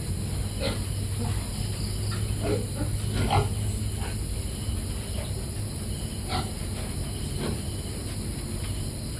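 Piglets feeding, making about five short calls a second or more apart, over a steady low hum.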